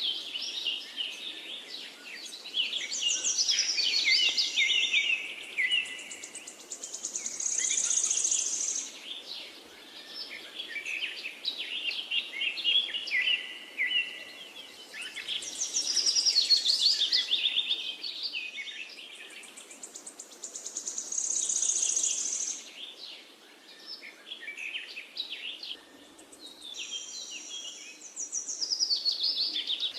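Songbirds singing: phrases of quick chirps and warbles recurring every few seconds, some ending in a high buzzy trill, over a faint steady background hiss.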